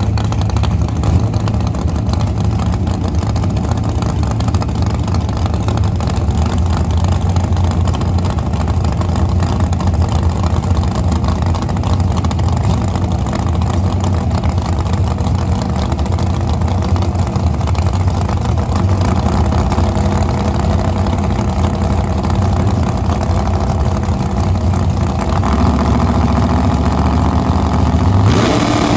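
Drag race car engine running loudly at a steady low idle, then the revs begin climbing just before the end.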